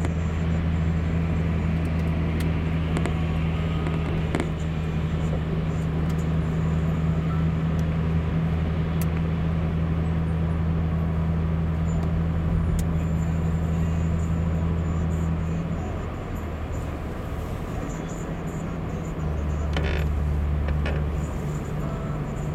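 Car running, heard from inside the cabin: a steady low hum that drops slightly and changes pitch about two-thirds of the way through.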